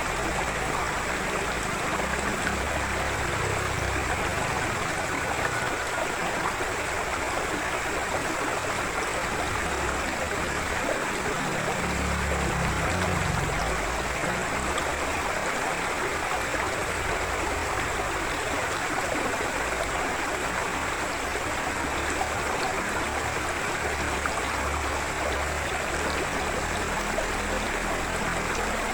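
Forest river flowing steadily over rocks, a continuous rushing and gurgling of water.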